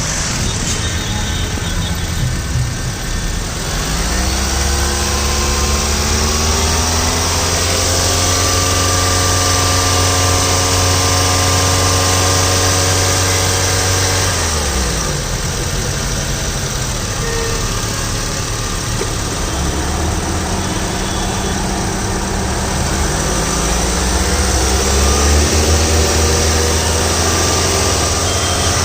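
Honda CR-V engine revved from idle: the pitch climbs about four seconds in and is held high for several seconds, drops back to idle, then climbs and is held again near the end.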